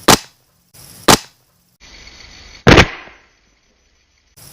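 Four sharp, loud knocks about a second or more apart, the third heavier, with a short ringing tail.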